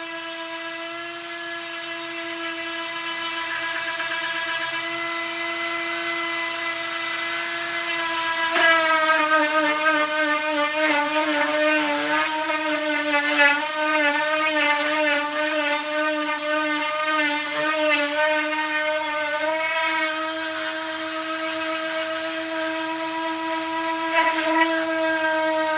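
Electric sander running on a wooden table top with a steady, high motor whine. From about a third of the way in until about three quarters, its pitch wavers up and down, then it settles back to a steady tone.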